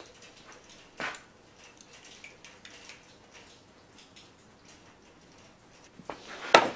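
A hot knife working into a hard plastic crankbait lure: faint scattered clicks, a sharp click about a second in, and a loud sharp crack near the end.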